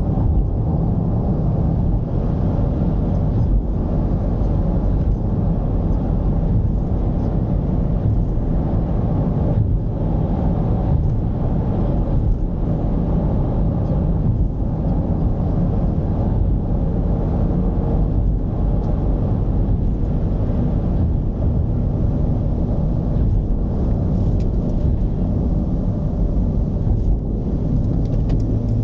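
Mercedes-Benz V220 d's four-cylinder diesel engine running at a steady pace while driving, a low rumble mixed with road noise. A faint steady hum comes in near the end.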